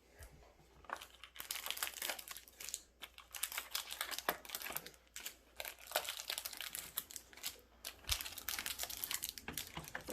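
Foil booster-pack wrappers crinkling and rustling in the hands in quick, irregular crackles, as packs are handled and opened.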